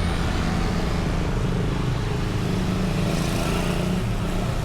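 Steady motor-vehicle engine and road noise, a continuous low rumble, with a brief rise in hiss about three seconds in.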